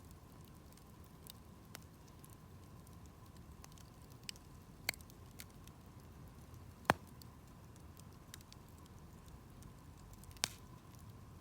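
Wood campfire crackling: a low, steady flame rustle with scattered sharp pops and snaps, the loudest about seven seconds in and another near the end.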